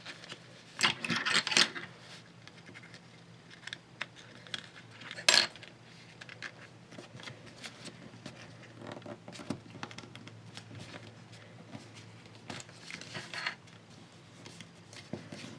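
Sheet of paper being folded and creased by hand: scattered rustles and crinkles, loudest about a second in and again about five seconds in, over a faint steady hum.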